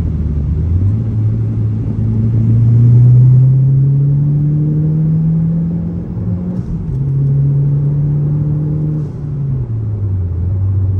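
2013 Mazdaspeed3's turbocharged 2.3-litre four-cylinder, with a Cobb intake and full bolt-on Corksport exhaust, accelerating hard, heard from inside the cabin. The engine note climbs for about five seconds, drops with an upshift about six and a half seconds in, holds, and then falls again near the end.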